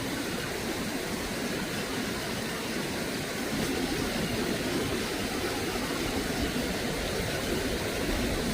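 Stream water rushing steadily, a continuous even noise with a little more low rumble from about halfway through.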